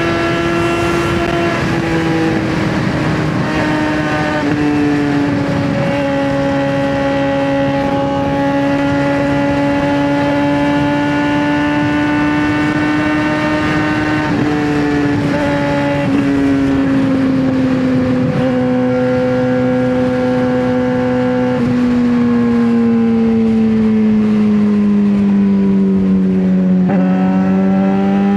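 Straight-piped 2009 Suzuki GSX-R600 inline-four running at steady high revs under way. The engine note slowly falls in pitch, with several brief breaks, and sinks lowest near the end before rising again.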